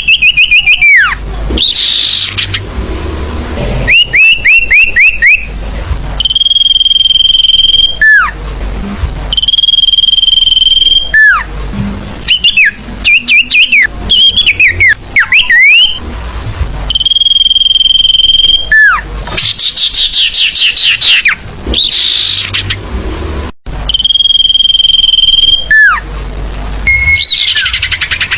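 Sirfu bird song played as a lure call, loud: phrases repeat again and again, mixing high notes held steady for a second or more, quick downward-sliding whistles and fast runs of chirps.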